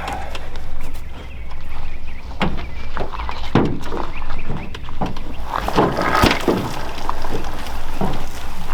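Irregular clunks and knocks from an ATV being pushed with its engine off in neutral, over a steady low rumble.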